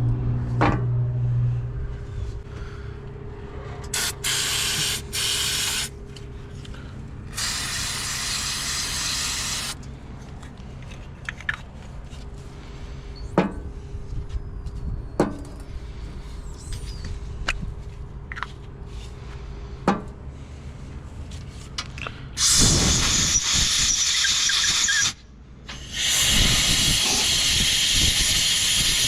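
Pressurised spray hissing in four bursts of two to three seconds each, a cleaning spray blown over a diesel engine, with a few sharp clicks in between.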